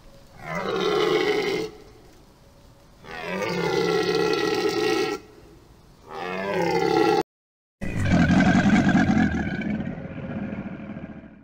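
A deer calls three times in drawn-out bellows, the middle one the longest, each opening with a short downward slide in pitch. After a brief break, an alligator gives a deep, rough rumbling call that is loudest at first and fades away.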